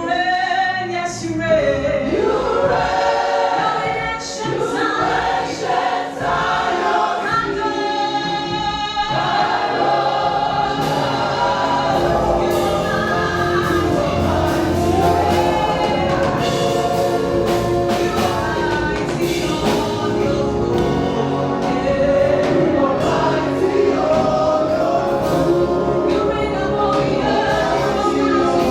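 Gospel music: a choir singing with instrumental backing, with a steady bass and beat joining about twelve seconds in.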